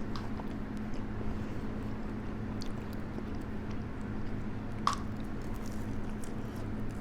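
Close-miked chewing and wet mouth sounds of someone eating, over the steady hum of an electric fan. A sharper click stands out about five seconds in.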